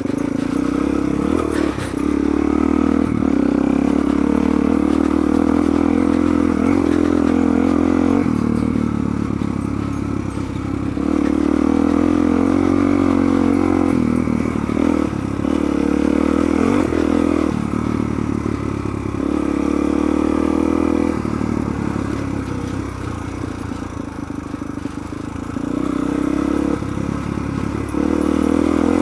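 Suzuki DR-Z400 single-cylinder four-stroke dual-sport engine running under way off-road, the throttle rolled on and off: the engine note rises and falls several times, with quieter, lower-revving stretches between the pulls.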